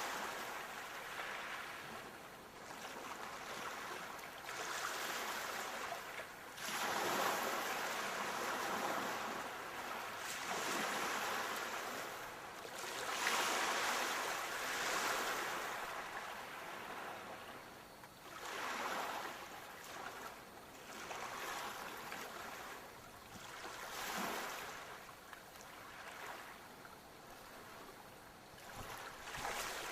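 Sea waves breaking and washing on a shore, the surf swelling and falling back every few seconds with no steady rhythm.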